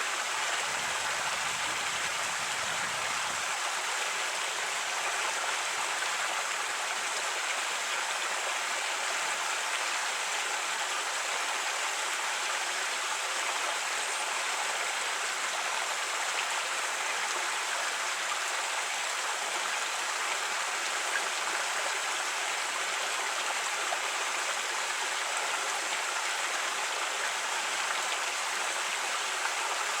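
A creek running: steady, even rushing and babbling of flowing water.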